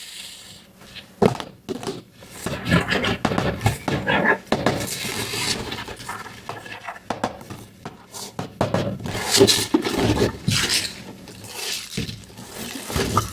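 Small plastic toy pieces and packaging being handled: irregular clicks, taps and knocks with bouts of rustling.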